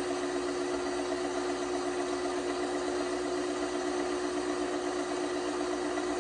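LG washing machine running with a steady, constant hum that neither rises nor falls.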